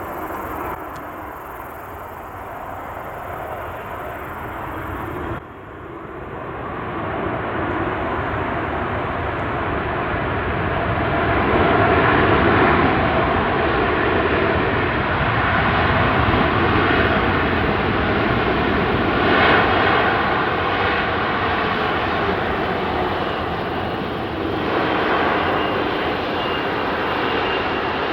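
Boeing 787-9 airliner's jet engines running, a loud steady rush. It breaks off abruptly about five seconds in and then builds up again.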